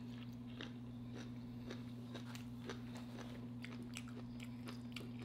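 Quiet, close-miked chewing of food, with small wet mouth clicks scattered throughout, over a steady low electrical hum.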